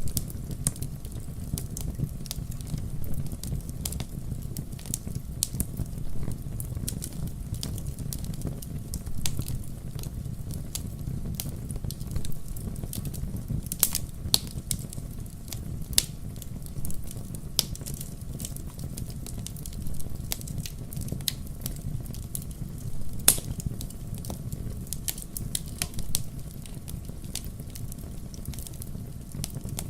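Wood fire crackling: irregular sharp snaps and pops over a steady low rumble of burning logs.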